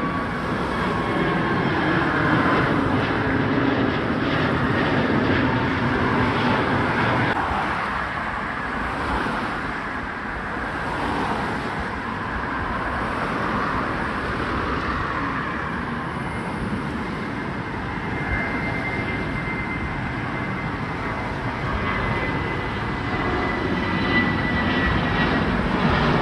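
Jet airliner's engines at takeoff power: a steady, dense rush with a faint high whine that falls slowly in pitch, easing off a little midway and building again near the end.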